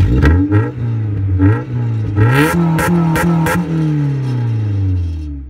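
Car engine revving as an intro sound: the revs climb twice, four sharp cracks come in the middle, then the revs fall away and the sound fades out.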